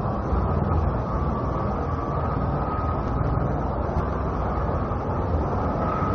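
Steady low rumbling engine drone of spaceships in an animated space battle, with a faint steady hum above it and no sudden events.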